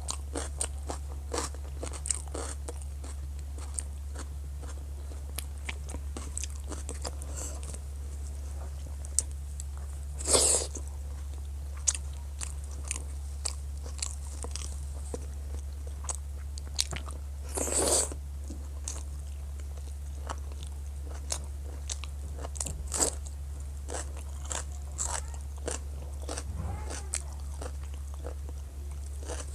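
Close-up eating sounds: chewing, wet mouth clicks and crunching of fried food, with two longer, louder crunches about ten and eighteen seconds in. A steady low hum runs underneath.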